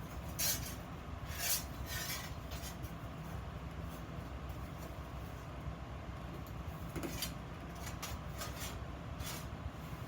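Steel pieces being handled and scraped on a workbench: a few short metallic scrapes and rubs, over a steady low hum.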